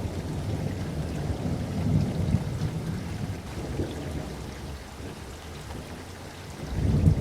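Steady rainfall with low rolling thunder rumbling underneath, swelling about two seconds in, dying down, then building again near the end.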